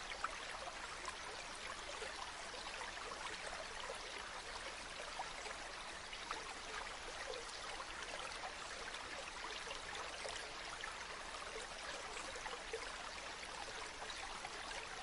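Waterfall: falling water rushing steadily, with many small splashes and drips through it.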